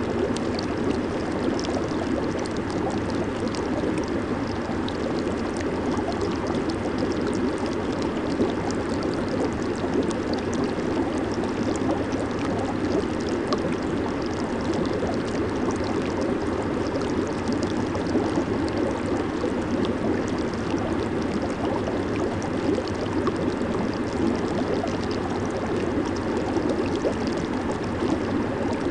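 Jacuzzi jets bubbling and churning the water steadily, over a low steady hum.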